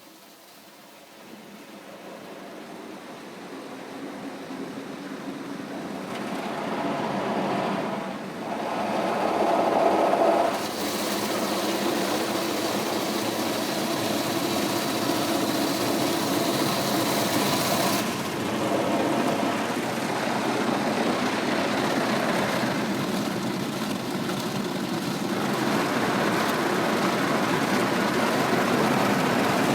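Automatic car wash machinery working over the car, heard from inside the cabin: a mechanical noise that builds up over the first ten seconds, then runs loud and steady, with a bright hissing stretch in the middle that stops suddenly.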